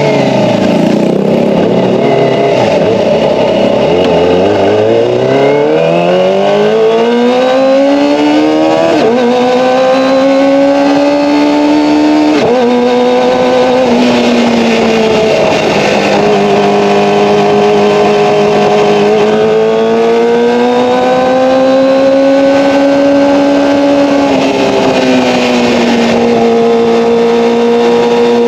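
Kawasaki ZX-25R inline-four engine through an Akrapovic Evolution exhaust, ridden. The revs drop to a low point about four seconds in, then climb hard. After that the pitch steps down and holds at several points, like gear changes, settling into a steadier cruise near the end.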